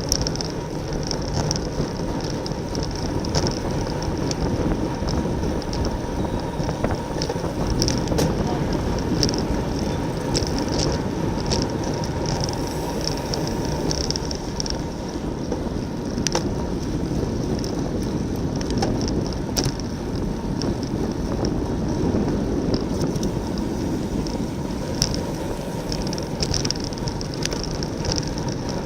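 Wind buffeting a racing bicycle's on-board camera microphone along with tyre and road noise as the bike rides at speed, with a few sharp clicks scattered through.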